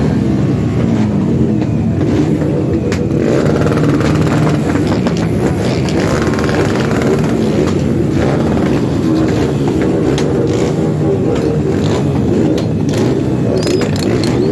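Several small-displacement motorcycle engines running and revving at once, their pitches rising and falling over one another.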